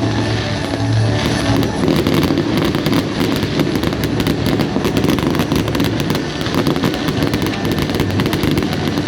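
Fireworks going off in a dense barrage: a fast, continuous crackling of many small sharp bangs.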